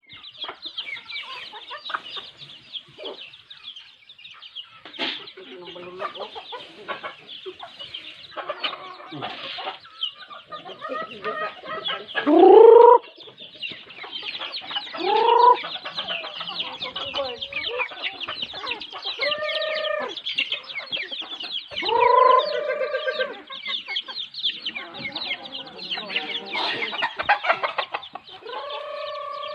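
A flock of native chickens clucking and chattering continuously while being fed. Several louder drawn-out calls stand out, the loudest about twelve seconds in, with others around fifteen, twenty and twenty-two seconds and near the end.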